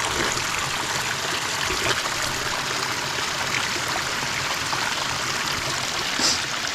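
Small mountain stream running steadily, water trickling and splashing over stones.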